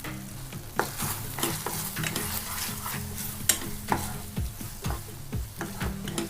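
Stir-frying: a spatula scraping and clicking against the pan about twice a second, over a steady sizzle of onions and capsicum cooking in sauce.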